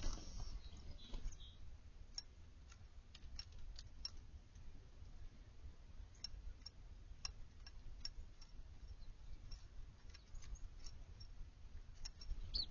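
Small wild birds at a backyard feeding spot: faint, irregular light clicks and taps of pecking and handling seed, with one short, high, falling chirp near the end.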